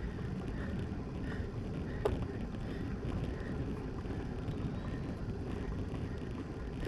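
Steady wind rumble on the microphone of a camera riding along on a moving road bike, mixed with road noise. A single sharp click about two seconds in.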